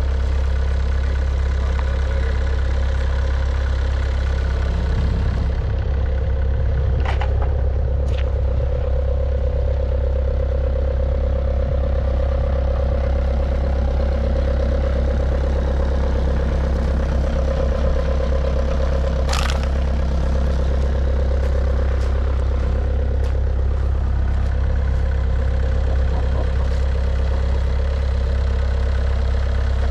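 Diesel engine idling steadily with a low drone, with a few brief clicks or clanks, one about seven seconds in and a sharper one about two-thirds of the way through.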